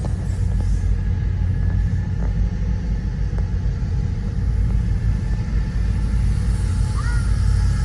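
Double-stack intermodal freight train passing, a steady low rumble heard from inside a car, with faint scattered clicks and a brief high squeal about seven seconds in.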